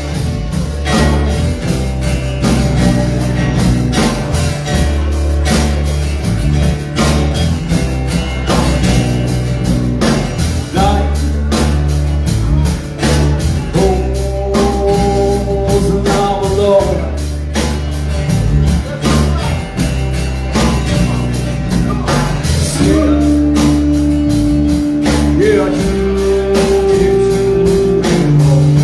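Live rock band playing a song: guitar with long held notes over bass and a steady drum beat.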